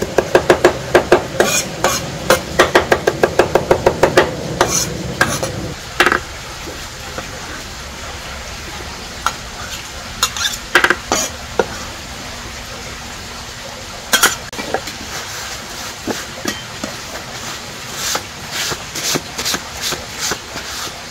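Food frying in a pan: a steady sizzle with scattered clinks and scrapes of a utensil stirring. It opens with a quick run of knocks, about five a second, and the clinks come thicker near the end.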